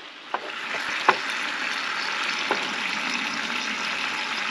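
Food sizzling as it fries in a pan on a camp stove, a steady hiss with a few short clicks of a utensil against the pan.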